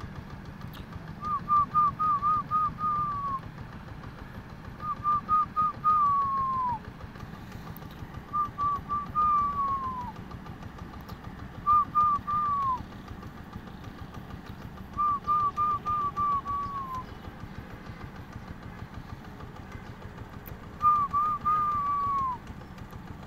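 A bird singing a whistled phrase of several quick hooked notes that ends in a longer falling note, repeated six times at intervals of a few seconds.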